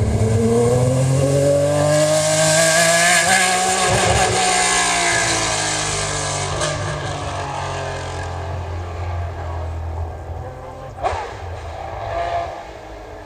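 A car engine run hard past: its pitch climbs for the first three seconds or so, then falls away and fades as the car goes by. A single sharp crack about eleven seconds in.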